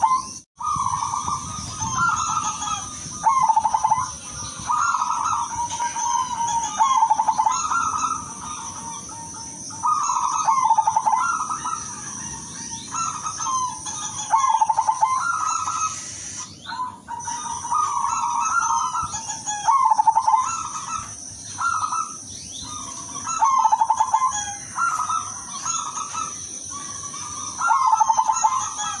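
Zebra dove (perkutut) cooing in rhythmic phrases of rapid staccato notes, each about a second long and repeated every second or two. A steady high-pitched whine runs underneath.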